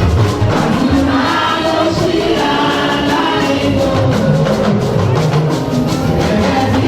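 Church choir and congregation singing a gospel song, accompanied by steady percussion.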